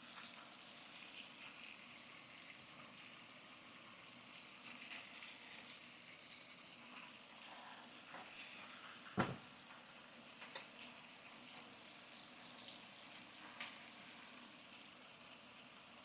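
Faint sizzling of fish, onions and garlic cooking in a pan. A single sharp knock about nine seconds in, then a couple of lighter clicks.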